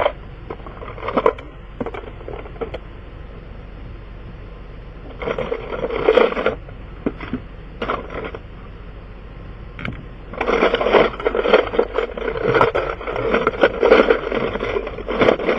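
Metal tools and sockets clattering and scraping as someone rummages through a toolbox: a short burst about five seconds in, then a longer stretch of rattling from about ten seconds in.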